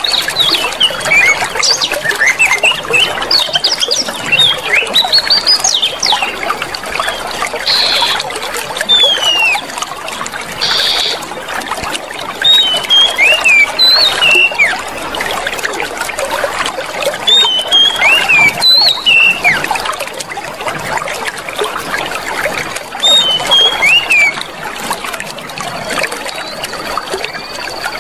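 Clear running water trickling and flowing steadily, with small birds calling throughout in short rising and falling whistles.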